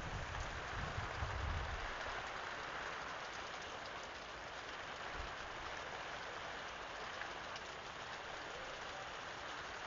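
Steady rain falling, an even hiss of drops on surfaces. A low rumble underneath fades out about two seconds in.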